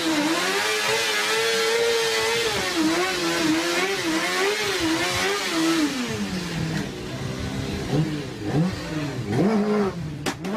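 Sport motorcycle engine revved hard and held at high revs with the throttle, its pitch wavering while the rear tyre smokes in a burnout. About six seconds in the revs drop, followed by a few short blips up and down and a couple of sharp knocks near the end.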